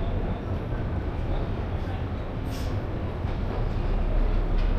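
Train's steady low rumble in a railway station, with indistinct voices.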